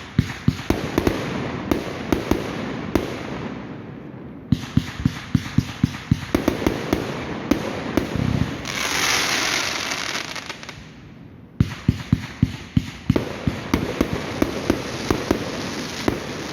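Fireworks going off in rapid volleys of sharp cracks and bangs, several a second. About nine seconds in the cracking gives way to a hiss lasting about two seconds, then another fast run of cracks starts.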